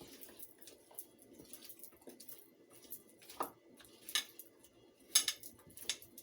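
Seasoned chicken and vegetables being mixed in a dish: scattered clicks, scrapes and soft squelches, the loudest a little after four and five seconds in.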